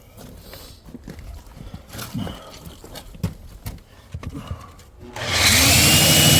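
A few scattered knocks and clicks as the core drill rig is handled, then, about five seconds in, the Hilti core drill's electric motor starts up: a whine rises quickly and settles into a loud, steady run.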